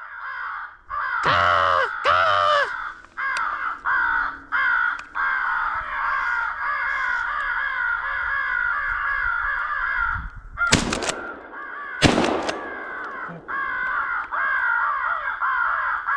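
Many American crows cawing all at once in a dense, unbroken chorus. Two shotgun shots cut through it about eleven and twelve seconds in, a little over a second apart.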